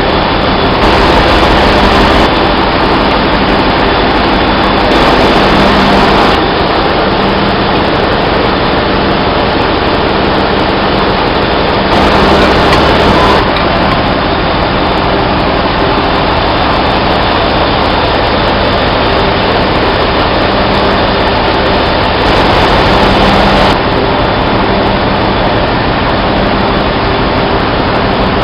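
Loud, steady machinery noise with a low hum running under a dense roar, the continuous din of running engine-room machinery.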